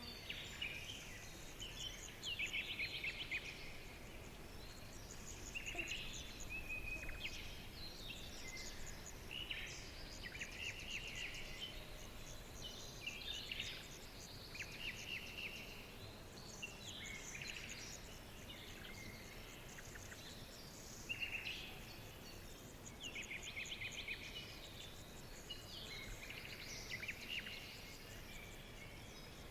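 Several songbirds chirping and trilling in short, overlapping bursts over a steady low background hiss.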